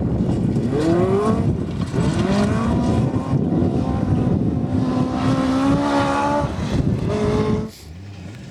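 Rally car engine revving hard under full acceleration, its pitch climbing and falling several times as it shifts up through the gears. The sound drops away suddenly near the end.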